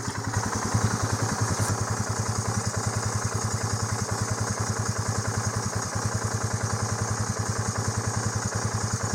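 An engine idling steadily, with a rapid, even pulse and a low hum that do not change.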